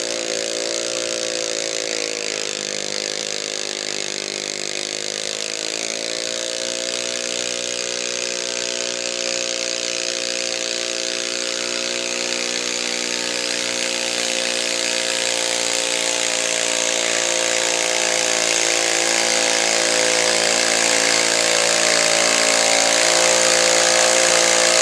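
Modified garden pulling tractor's engine running hard through a pull. Its pitch sags a few seconds in, then climbs back and holds steady, growing louder toward the end.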